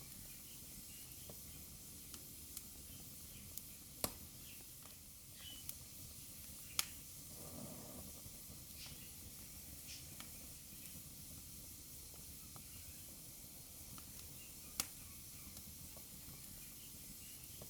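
Wood fire burning in a fireplace: a steady soft hiss with scattered sharp crackles and pops, three of them louder, about four, seven and fifteen seconds in.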